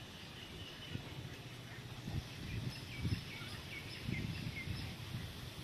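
Outdoor ambience: a bird chirping in short, quick high notes from about two seconds in, over low rumbles of wind on the microphone.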